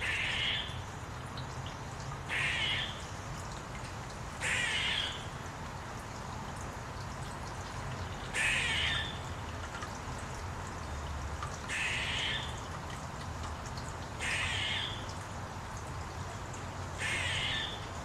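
A bird giving seven short, harsh calls at irregular gaps of about two to four seconds, over a steady faint hiss.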